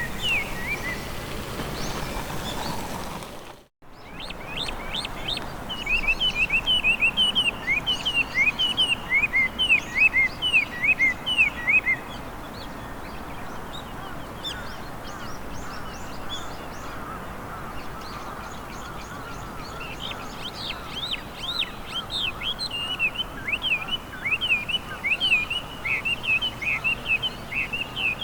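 Chinese hwamei (Garrulax canorus) singing a varied song of rapid, repeated whistled notes that sweep up and down in pitch. The song comes in long runs, with a quieter stretch in the middle.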